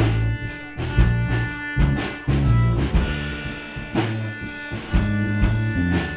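Live gypsy rock band playing: a drum kit keeping a steady beat under bass and guitar.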